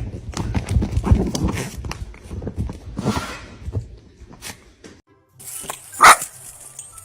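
A dog barking, with rumbling and knocking noise through the first few seconds and one loud, sharp bark about six seconds in.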